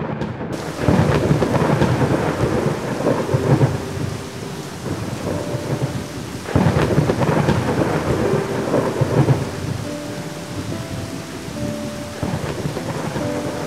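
Thunderstorm sound effect: steady rain with two rolls of thunder, the first about a second in and the second starting suddenly about six and a half seconds in.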